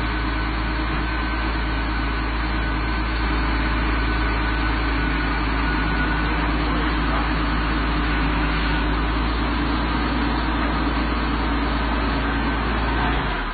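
Toyota Supra MK3's 7M-GTE turbocharged straight-six idling steadily, then stopping near the end.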